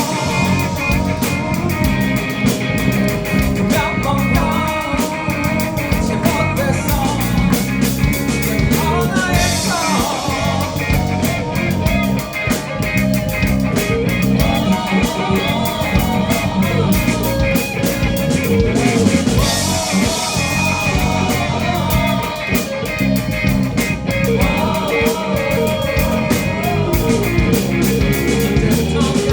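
Live rock band playing a song: drum kit beating steadily under bass, electric guitars and keyboard, with a melody line bending above them.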